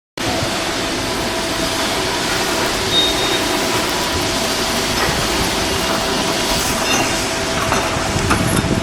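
Steady heavy-machinery running noise with a constant whine and a few light clanks.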